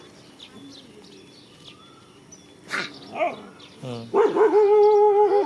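Dog vocalizing: two short, sharp barks about three seconds in, then a loud, long drawn-out cry held at a steady pitch near the end.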